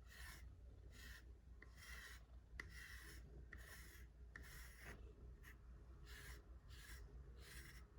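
A brush combing through a cat's fur in short, faint scratchy strokes, a little more than one a second.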